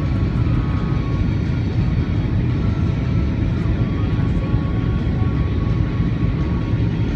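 Cabin noise of an Airbus A320 heard from a rear window seat: a steady, loud rumble of airflow and engines, with faint steady whining tones above it.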